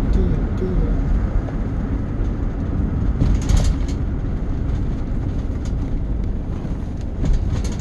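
Vehicle on the move: a steady low rumble with brief rattles, one about three and a half seconds in and another near the end.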